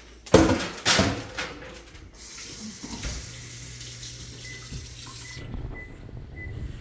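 Kitchen tap running into the sink for about three seconds, starting about two seconds in, after a few loud clatters like dishes or a tray being handled. Near the end there are a few faint short beeps.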